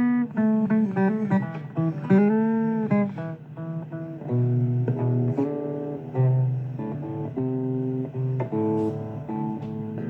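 Blues guitar played between sung lines: single plucked notes with string bends, then lower held notes and a few strums.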